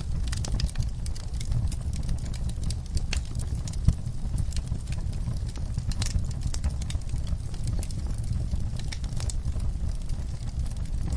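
Log fire in a fireplace crackling: irregular sharp pops and snaps over a steady low rumble of the flames, with one louder pop about four seconds in.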